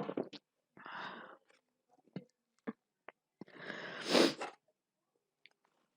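Mouth sounds of someone eating cake: scattered wet clicks and chewing noises, with a breathy rush about a second in and a longer, louder one around four seconds in.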